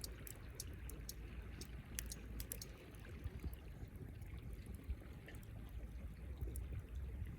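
Wood campfire crackling, with irregular sharp pops scattered throughout over a low steady rumble.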